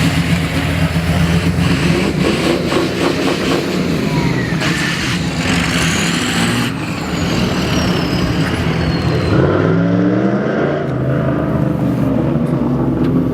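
Car engines running as cars drive past one after another. A louder rush of noise comes about five to seven seconds in, followed by a high whine falling in pitch, and one engine revs up with rising pitch about ten seconds in.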